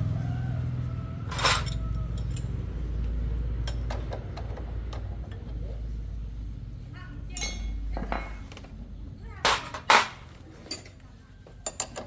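A motorcycle engine's low running rumble fades away over the first eight seconds or so. Sharp metallic clinks and knocks are scattered throughout, the loudest two coming close together about ten seconds in.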